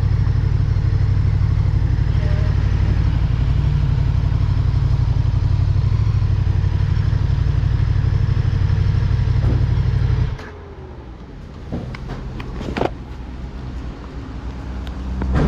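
KTM 1290 Super Duke R's V-twin engine running as a steady heavy low rumble, then cutting off abruptly about ten seconds in. A few clicks and knocks follow over quieter background.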